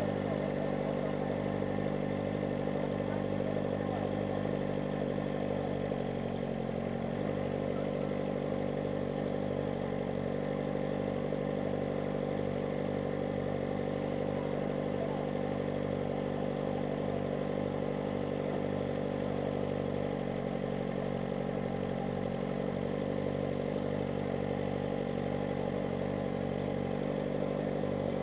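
Kawasaki ZX-4RR's 399 cc inline-four engine running steadily at a near-constant speed under way, its pitch dipping briefly and coming back up about seven seconds in.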